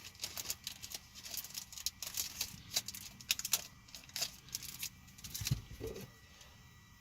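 Trading cards and their plastic packaging being handled: quick clicks and rustles, then a dull thump about five and a half seconds in, after which the handling stops.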